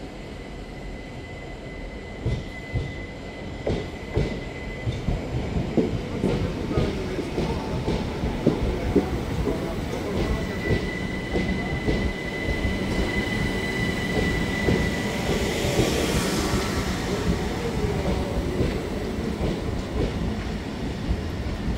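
Southern Class 377 Electrostar electric train running slowly into the platform: wheels knocking over rail joints under a steady rumble. A thin, high wheel squeal sounds twice, and a short hiss comes about sixteen seconds in.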